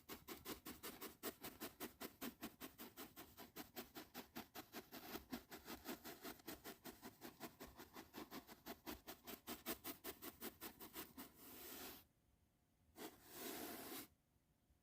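Soft brush bristles stroking back and forth in quick, even strokes, about six a second, then slowing to two longer, slower sweeps near the end.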